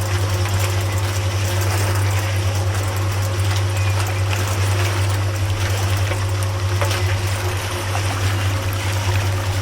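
A small electric motor humming steadily on one low pitch, with water splashing and trickling.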